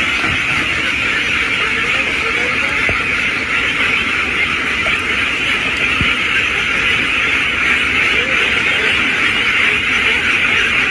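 A huge flock of ducks quacking all at once, blending into a steady, loud din.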